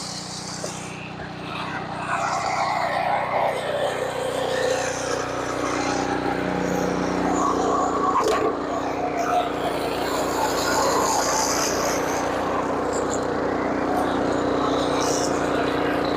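An engine running steadily, with a single knock about eight seconds in.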